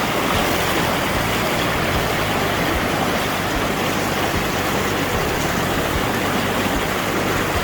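Mae Klang Waterfall's water rushing and splashing in a steady, loud hiss.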